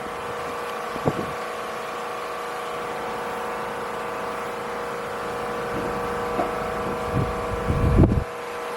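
A steady mechanical drone, a hum with a few fixed pitches, with wind gusting on the microphone about a second in and again more strongly near the end.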